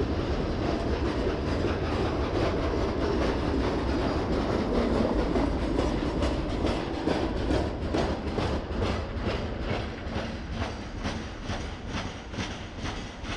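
Freight train of hopper cars and boxcars rolling past, its wheels clicking over the rail joints in a steady rhythm over a continuous rumble. The sound fades as the last wagons pull away near the end.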